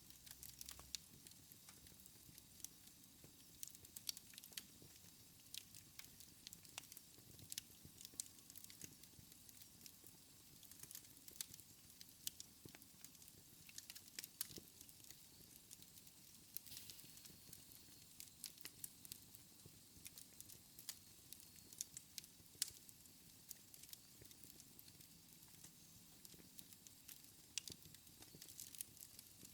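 Wood fire in a fireplace crackling softly: irregular sharp pops and snaps over a faint steady hiss.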